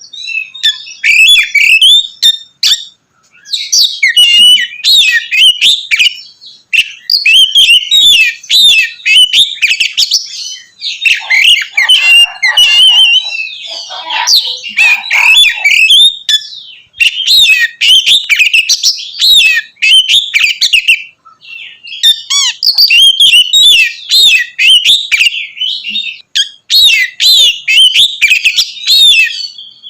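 Oriental magpie-robin (kacer) singing loudly and continuously: a rapid, varied run of whistles and chirps, in long phrases broken by two short pauses.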